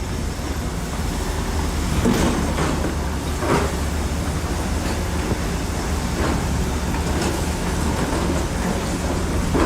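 Shantui crawler bulldozer's diesel engine running steadily, with its steel tracks clanking and squealing several times as it moves.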